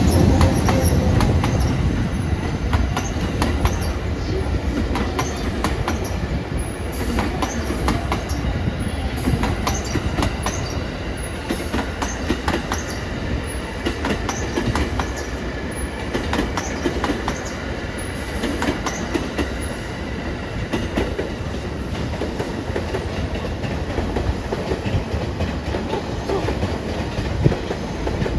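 An EH500 electric locomotive hauling eight unpowered E501 series commuter cars rolls past, loudest with a low rumble as the locomotive goes by at the start, then the cars' wheels clattering over rail joints in a steady rhythm. Brief high-pitched wheel squeals come a few times.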